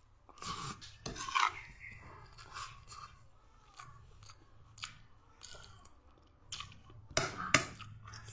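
Close-up chewing and biting of bitter gourd (ampalaya): irregular wet, crunchy mouth sounds, with louder bites just over a second in and again near the end.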